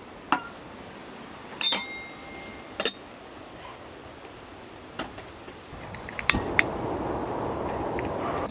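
Small hard objects clinking, like dishes or utensils knocked together: about six sharp clinks spread out, one with a short ringing after it. A steady rushing noise comes in from about six seconds in.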